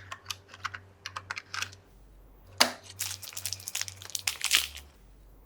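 Small plastic toy pieces being handled, clicking and tapping in quick irregular succession. About two and a half seconds in comes a sharper knock, followed by a dense run of clicks and crinkling.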